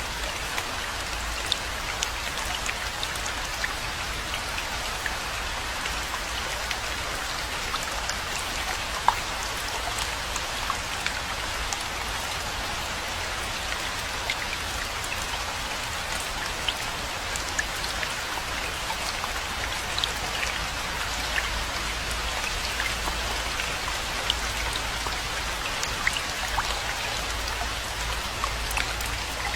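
Steady rainfall: an even hiss of rain with many distinct drop impacts ticking through it, one sharper drop about nine seconds in.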